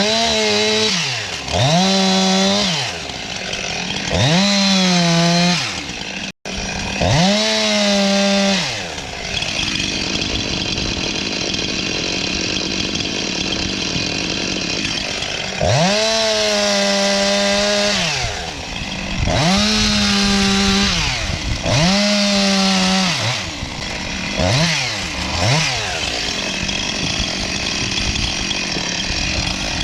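Chainsaw cutting firewood: the engine is revved up to full throttle again and again, holding each time for a second or two, then falling back between cuts.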